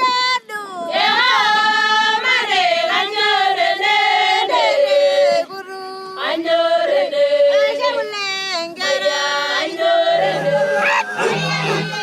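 Music with a high voice singing a melody of held, gliding notes; low bass notes come in near the end.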